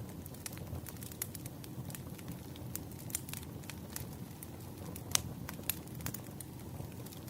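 Wood fire burning: a steady low rumble of flames with scattered sharp crackles and pops, one louder pop about five seconds in.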